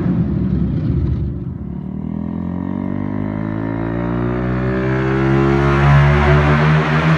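Bajaj Pulsar 150's single-cylinder engine running through a loud aftermarket Tech Hardy shorty exhaust. The revs fall away about a second in, then the exhaust note rises steadily in pitch and loudness as the bike accelerates.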